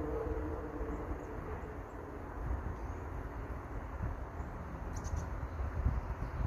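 Steady hiss of irrigation sprinklers spraying over a field, with gusty wind rumble on the microphone. A faint hum fades out in the first second or so, and a few faint bird chirps come about five seconds in.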